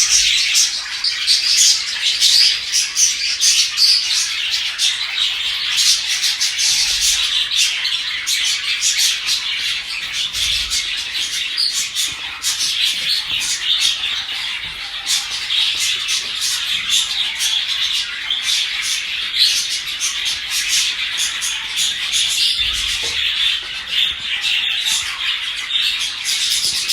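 A flock of budgerigars chattering continuously, a dense mix of warbles, chirps and squawks.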